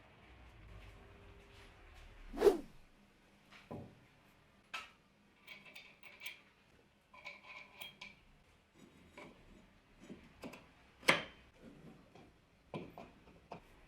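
Scattered clicks and light knocks of hard parts or tools being handled and set down, with two louder knocks, one about two and a half seconds in and one about eleven seconds in.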